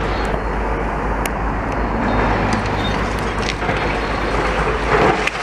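Steady rumble of road traffic and heavy demolition machinery, with a few light knocks.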